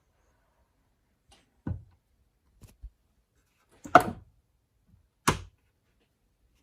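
Four separate knocks or clunks of something being handled and set down, the loudest about four seconds in, with a couple of faint ticks between them.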